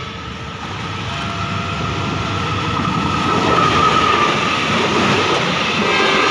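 A passenger train hauled by a CC 201 diesel-electric locomotive passing close by. The rumble of the locomotive and the wheel noise on the rails build up over the first few seconds, then the carriages roll past with a loud, steady rush of wheel noise.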